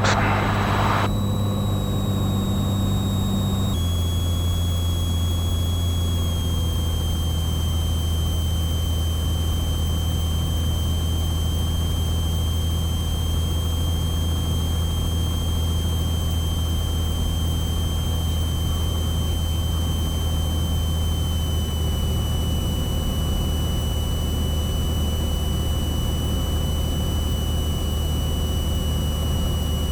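Cessna 182's six-cylinder piston engine and propeller droning steadily in the cabin on short final. A brief hiss comes in the first second, the engine note shifts about four seconds in, and it then eases slowly lower.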